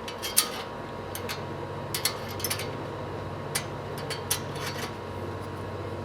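Scattered light metal clicks and clinks of bolts and spacers being handled and fitted while mounting a disc brake conversion kit on an axle housing, over a steady low hum.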